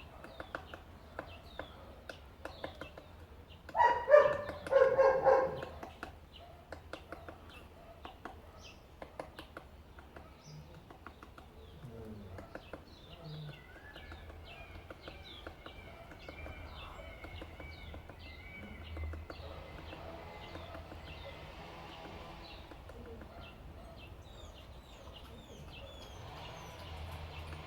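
Cardinal woodpecker tapping at wood in irregular runs of quick taps, with short high bird chirps throughout. A burst of loud, pitched calls stands out about four to six seconds in.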